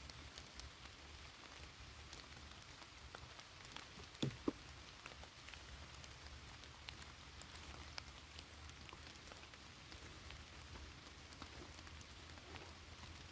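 Light rain falling, with scattered drops ticking. A single dull knock sounds about four seconds in.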